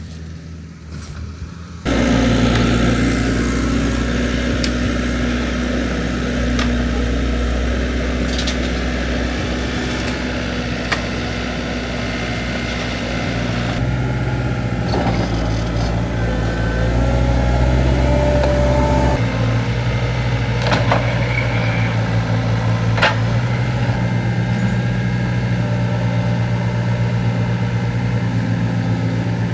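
A large engine running steadily, cutting in abruptly about two seconds in, its note shifting twice. A few light knocks sound over it.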